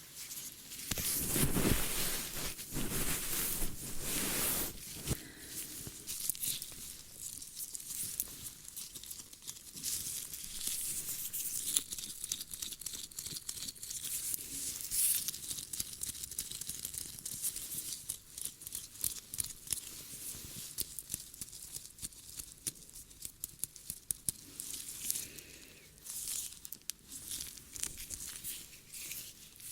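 Ear-cleaning ASMR sounds: tools scraping, crackling and rustling in the ear, a dense run of tiny scratches and clicks, loudest and fullest in the first few seconds.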